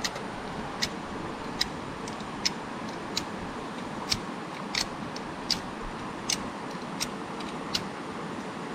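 A spark-throwing fire starter being struck again and again, a sharp click about every three-quarters of a second, over the steady rush of a river. The sparks are aimed at dry grass to light a campfire that has not caught.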